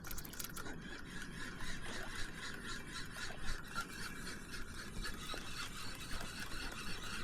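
Fishing reel being cranked fast on a quick lure retrieve: a steady gear whir with rapid, even ticking.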